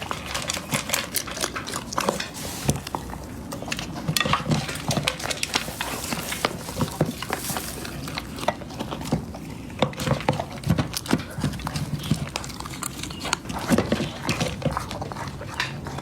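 A husky chewing and crunching raw food, a dense, irregular run of crunches and clicks.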